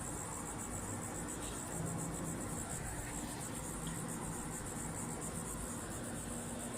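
Insect chorus: a steady, fast-pulsing high trill of crickets, with a faint low hum underneath.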